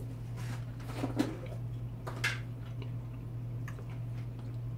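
Mouth sounds of a person chewing a mouthful of food, with a couple of short clicks, likely a fork against a plate, about a second and two seconds in, over a steady low hum.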